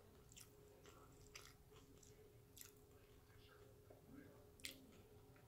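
Very faint closed-mouth chewing of a mouthful of deep-fried corn dog, with a few soft, sharp mouth clicks scattered through it; otherwise near silence.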